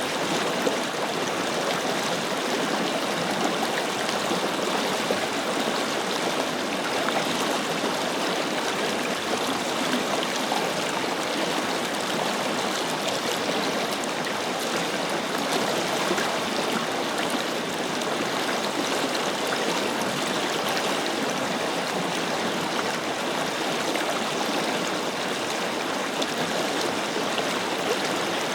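Forest river flowing, a steady rushing and babbling of water over stones.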